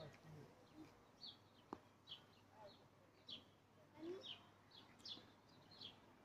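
Faint bird chirps: short, high, falling notes repeated irregularly, roughly one or two a second, with a single faint click a little under two seconds in.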